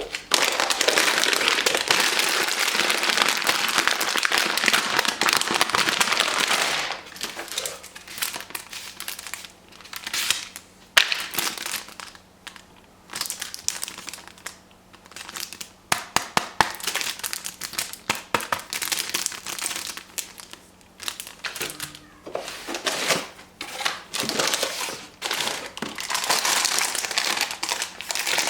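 Packaging crinkling and rustling as it is handled. The crinkling is dense for about the first seven seconds, then breaks into scattered crinkles and sharp clicks, and grows busy again near the end.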